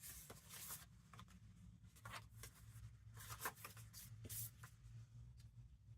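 Faint rustling and shuffling of paper, in a few short bursts, as journal pages and paper pieces are handled, over a low steady hum.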